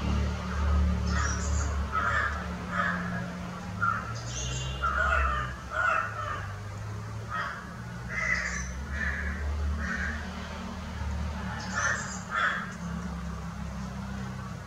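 Birds calling: short harsh calls repeating about once a second, over a steady low hum.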